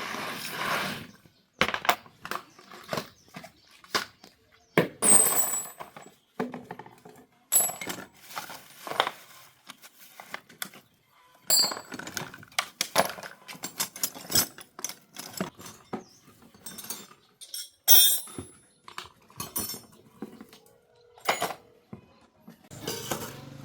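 Loose metal motorcycle parts and hand tools being handled, set down and knocked together: irregular sharp clinks and clanks, a few ringing briefly, with short pauses between.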